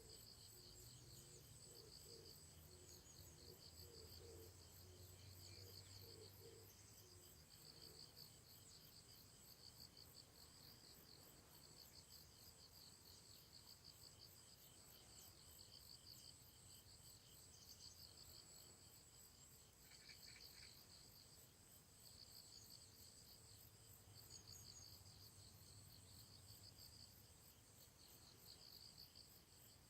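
Faint insect chirping: rapid, evenly repeating pulses at several high pitches that go on without a break, with a faint low hum underneath at times.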